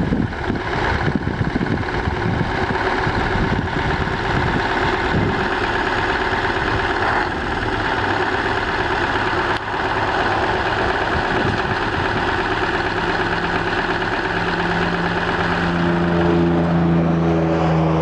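1974 International dump truck's engine running. In the last few seconds a steadier, louder hum comes in.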